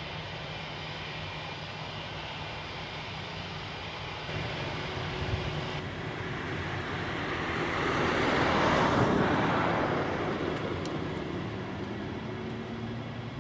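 Passenger airliner's engines passing by: a steady rushing drone with a thin whine in it, growing louder to a peak about two-thirds of the way through and then fading away.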